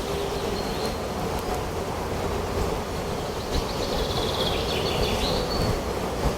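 Steady wind through a forest, with a bird giving a quick run of high chirps a little past the middle.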